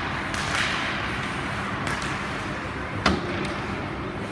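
Ice hockey rink during play: a steady wash of skates and arena noise with a few light clicks, and one sharp loud crack of a puck or stick strike about three seconds in.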